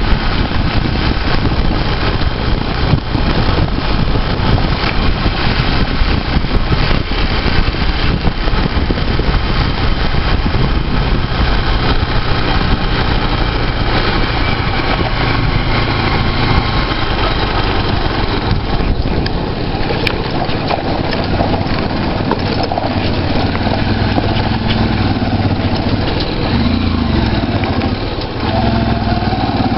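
Motorcycle engine running under way, with wind rushing over the microphone. The engine's pitch climbs a couple of times near the end.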